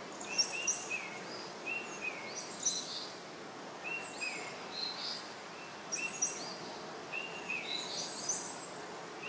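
Birds chirping: short downward-sliding chirps, often in pairs, repeating about once a second over a steady soft hiss.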